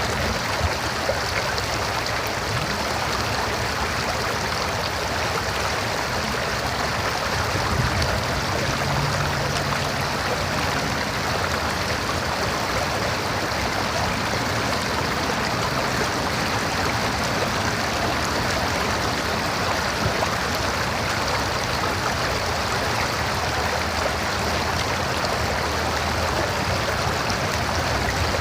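River water running over rocks, a steady rushing flow.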